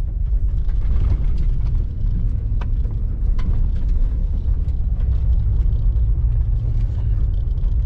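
A vehicle's cabin rumbling steadily as it drives slowly over a rough dirt trail, with scattered small knocks and rattles.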